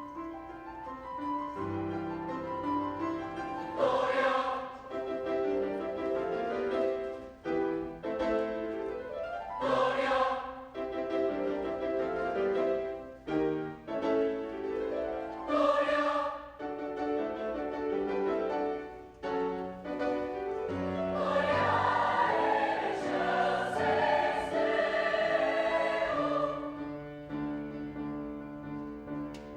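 Choir singing in parts with piano accompaniment, in sustained chords that swell repeatedly and build to a fuller, louder passage toward the end.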